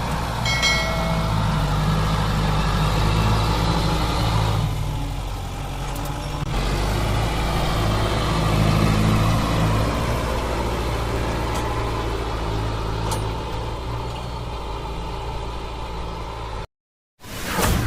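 Kubota MU4501 tractor's four-cylinder diesel engine running steadily, its note swelling and easing, then cut off abruptly for a moment near the end.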